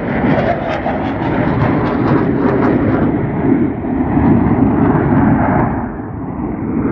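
Loud jet roar of an aircraft passing at an air show, crackling at first; after about three seconds the higher part of the sound fades away as it recedes, leaving a low rumble.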